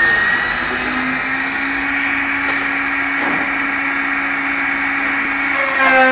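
CNC router spindle cutting beech wood: a steady machining noise over a constant hum. Near the end a new set of pitched tones comes in.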